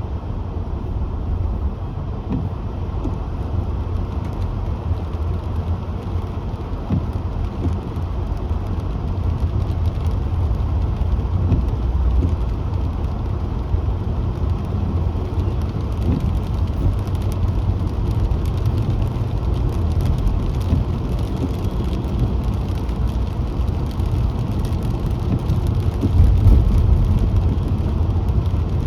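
Car driving on a city road: a steady low rumble of road, tyre and engine noise, swelling briefly near the end.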